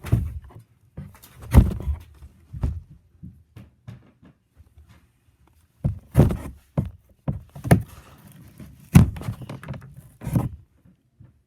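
Irregular knocks and thumps, several in quick clusters with quiet gaps between.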